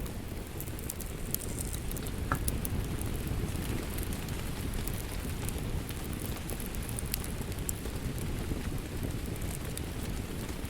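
Steady rain with the sharp, scattered crackles and pops of a burning wood fire over it, one pop standing out about two seconds in.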